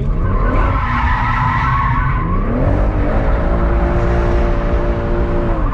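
BMW M140i's turbocharged straight-six revving hard while its tyres squeal for about the first two seconds as they break traction. The revs then climb again, hold high for a couple of seconds, and drop off near the end.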